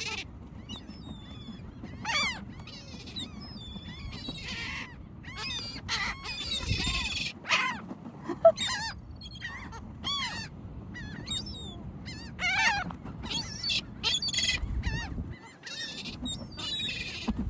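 A crowd of birds calling, with many short squawks overlapping and following one another through the whole stretch.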